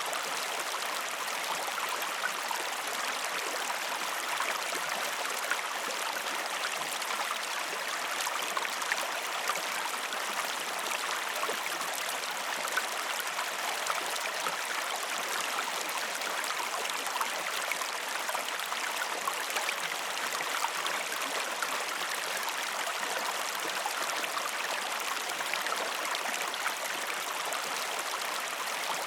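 River water flowing steadily, a constant rushing with small splashes and trickles through it.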